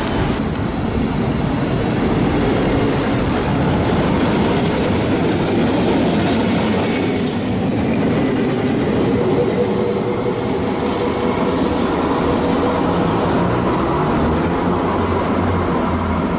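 Electric train running past close along the platform, with a steady loud rumble of wheels on the rails.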